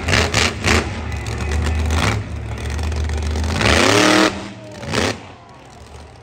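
Monster truck engine running hard and revving, with a loud surge about four seconds in, then falling away to a lower level.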